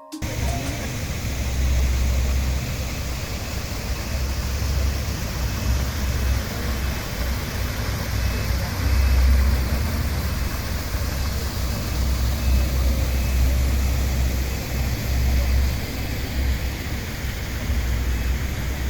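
Steady rush of water from the Bolintxu waterfall, an even roar with a heavy low rumble that swells and dips.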